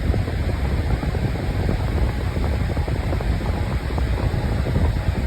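Lasko Windstorm pedestal fan running on speed 3 with its replacement blade: a steady, loud rush of air blowing straight into the microphone, with a gusty low rumble.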